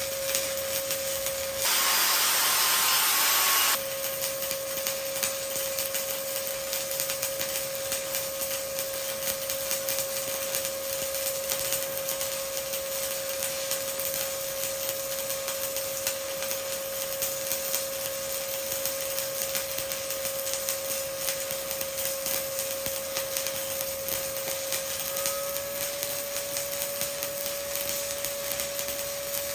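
Stick-welding arc from a 1/8-inch E7018 electrode at 120 amps, crackling steadily while an overhead cap pass is laid. A steady hum sits underneath throughout, and about two seconds in a louder hiss lasts for two seconds.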